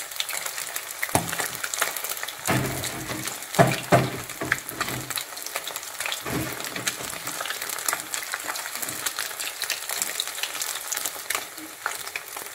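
Battered fish frying in hot oil in a stainless steel pan: a steady sizzle full of fine crackles and pops. A few dull knocks come in the first half as the pieces are worked with a wooden spatula.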